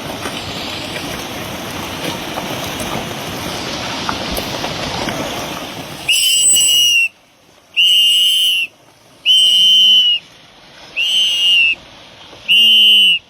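A loud, even rushing noise, then five long, shrill whistle blasts, each lasting about a second, with short gaps between them.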